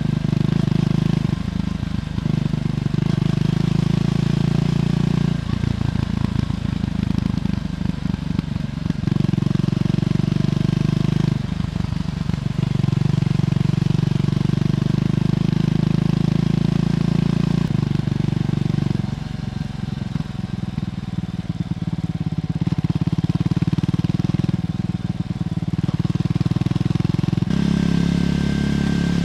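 Triumph Scrambler 400X's single-cylinder engine running through its stock exhaust while riding. The engine note changes in steps every few seconds as the throttle opens and closes, and it is a little quieter for a stretch past the middle.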